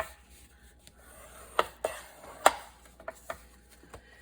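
Cardstock and paper-crafting tools worked on a tabletop: a handful of sharp clicks and taps with light paper rustling between them. The loudest tap comes about two and a half seconds in.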